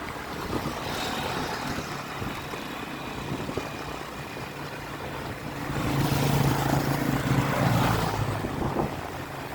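Road traffic with wind on the microphone; about six seconds in, a motor vehicle's engine grows louder for a couple of seconds as it goes by, then fades.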